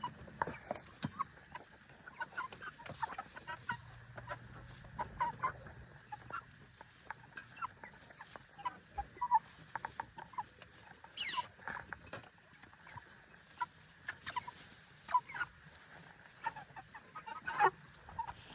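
A flock of young meat chickens clucking and peeping, many short overlapping calls, with a couple of louder drawn-out calls about eleven seconds in and near the end.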